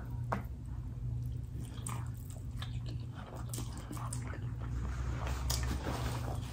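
A person chewing a mouthful of spicy noodles close to the microphone, with scattered small wet smacks and clicks, over a low steady hum.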